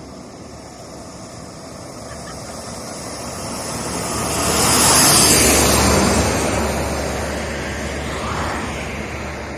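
A motor vehicle passing close by on the road: its noise swells to a peak about halfway through, then drops in pitch and fades as it moves away.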